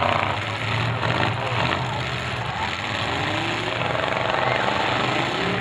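Demolition derby cars' engines running, with a few rising glides in pitch as they are revved while the cars sit locked together.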